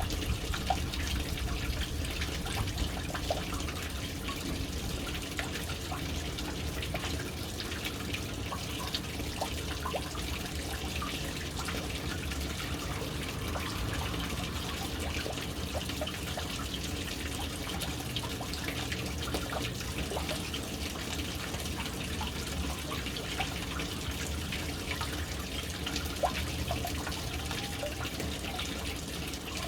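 Water falling into a household water storage tank: a steady running, splashing flow with many small drips and drops scattered through it.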